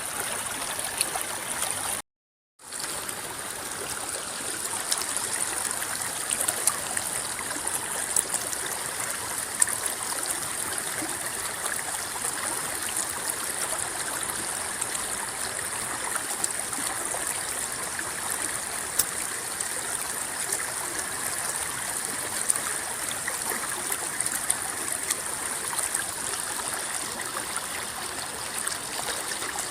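River water flowing and rippling, a steady rush with many small splashes and trickles. The sound cuts out completely for about half a second, about two seconds in, then fades back in.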